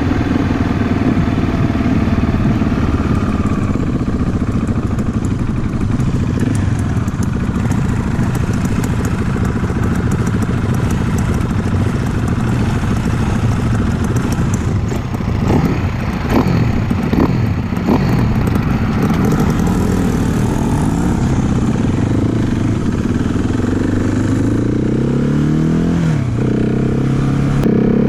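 Husqvarna 701 single-cylinder motorcycle engine running under way with the throttle opening and closing: the revs rise and fall a few times about halfway through, then climb again and again near the end as it accelerates.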